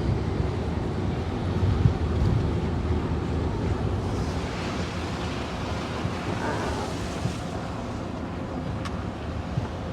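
Wind buffeting the microphone: a steady rushing rumble.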